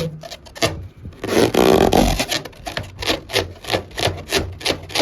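Rubber balloon squeaking as it is rubbed: a drawn-out stretch about a second in, then quick, even strokes at about four a second.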